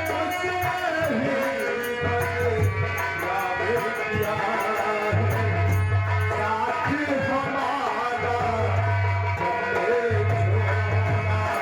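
Live North Indian folk music for a nautanki performance: a wavering, gliding melody line over a low, pulsing accompaniment.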